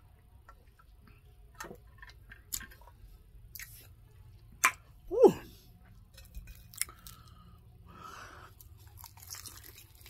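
A person chewing fried chicken, with scattered sharp clicks. A short sound falling in pitch about five seconds in is the loudest moment.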